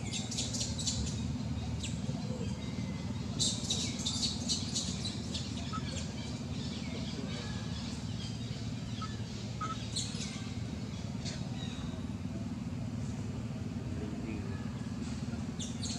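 Birds chirping: quick runs of short, high chirps that come four times, over a steady low background rumble.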